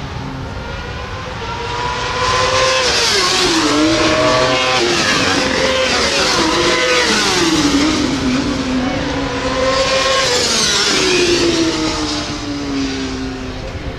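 Several racing motorcycles passing at speed, their engine notes overlapping and sweeping up and down with gear changes, with several notes dropping in pitch as bikes go by. Loudest through the middle stretch.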